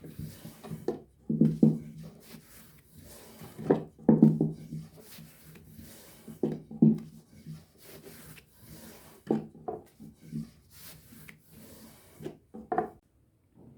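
Wooden rolling pin rubbing and knocking on a wooden board as thin dough sheets for su böreği are rolled out, in uneven strokes with a couple of sharper knocks near the end.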